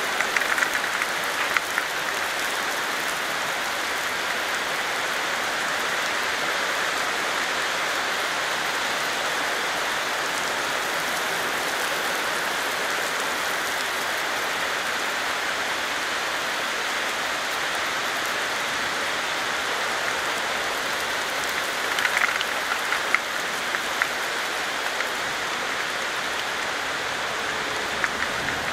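Steady rain falling with an even hiss, with a few louder drop splashes about a second in and again near the end.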